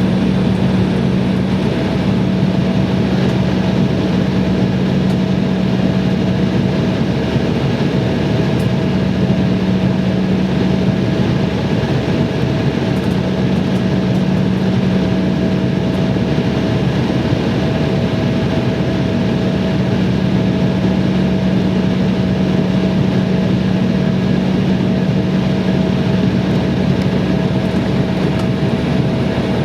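Steady, loud drone of an airliner's engines and rushing air, with a constant low hum and a fainter higher tone held throughout.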